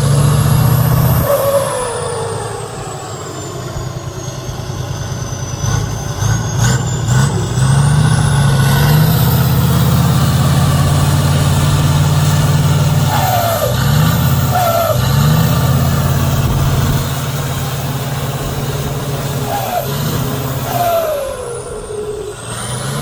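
Heavy truck's diesel engine working under load, its pitch rising and falling as it revs and eases off several times, with short falling whines above it.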